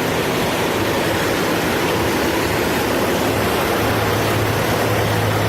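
Steady rushing noise with a low engine hum under it; the hum gets stronger and deeper about four seconds in.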